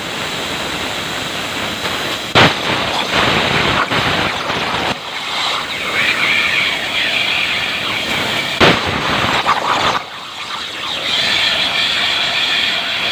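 CNC plasma cutter torch hissing steadily as it cuts, with a shrill whine in parts. There are two sharp loud cracks, about two and a half seconds in and near nine seconds, and the hiss drops away briefly about ten seconds in.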